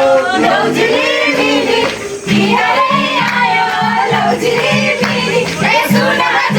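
A song with several voices singing together over a steady, repeating beat.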